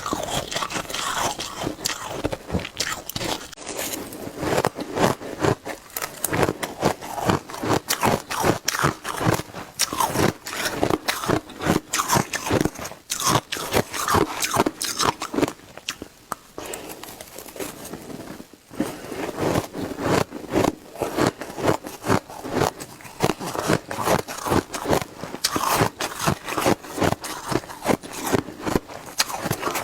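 Shaved ice being bitten and chewed in big, fast mouthfuls close to the microphone: a dense run of crisp crunches, easing off briefly a little past halfway.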